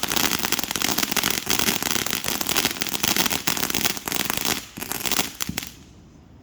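Consumer fireworks crackling: a dense, fast run of sharp pops that stops about five and a half seconds in.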